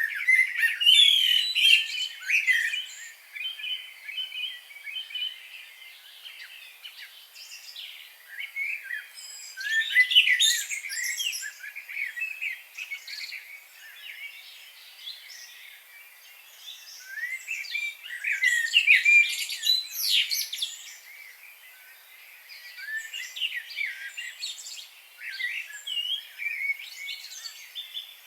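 Songbirds chirping and singing in quick, overlapping phrases. The loudest bursts come at the start, about ten seconds in and about twenty seconds in, with softer chattering between them.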